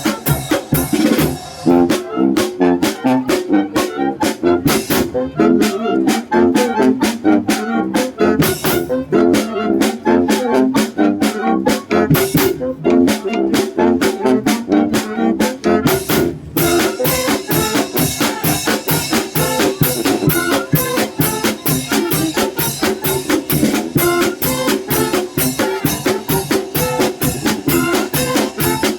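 A symphonic wind band playing a polka, with brass carrying the tune over a fast, steady drum beat.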